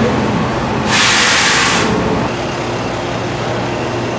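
Fire apparatus diesel engine running steadily, with a loud hiss about a second in that lasts about a second.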